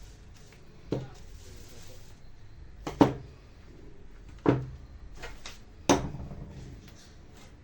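Four sharp knocks with a short ring, about one and a half to two seconds apart, and a few light clicks between the last two: metal grinder parts being knocked and handled on a workbench during disassembly for a bearing replacement.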